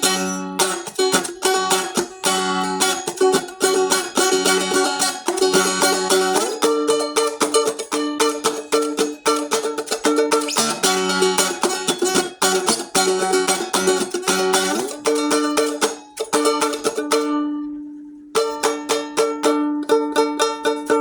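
Seagull Merlin stick dulcimer in D-A-D tuning strummed in quick repeated chords over a steady drone note. About 17 s in a note is left to ring and fade away before the strumming starts again.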